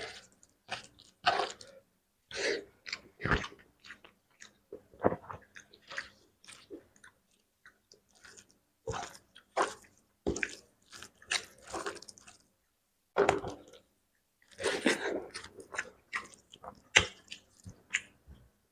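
Close-miked chewing of fish curry with spicy gravy: irregular wet smacks and clicks from the mouth, separated by short quiet gaps.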